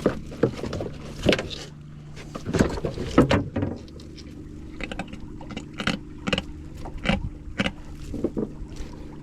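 A fishing boat's engine runs with a steady low hum, while irregular sharp knocks and slaps sound throughout.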